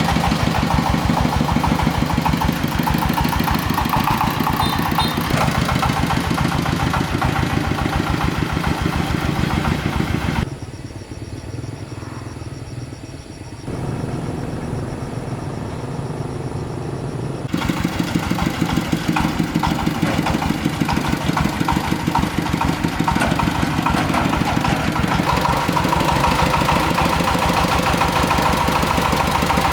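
Công nông farm truck's single-cylinder diesel engine running with a fast, even chugging. It drops in level for several seconds about a third of the way in, then comes back up.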